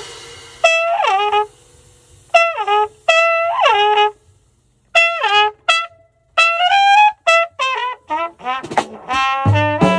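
Jazz horn playing short, broken phrases, many notes ending in falling bends, with brief silences between them and little accompaniment. The drums and band come back in near the end.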